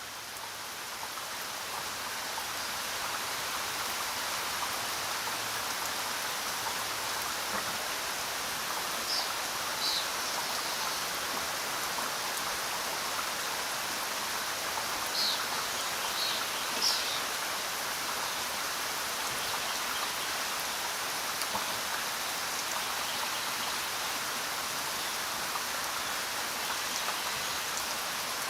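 Steady rain falling, an even hiss that fades up over the first two or three seconds. A few short high chirps stand out around the middle.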